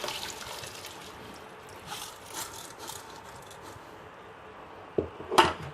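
Basmati rice being tipped into a pot of boiling biryani liquid: soft splashing and bubbling with scattered hissy bursts, then a couple of sharp knocks near the end.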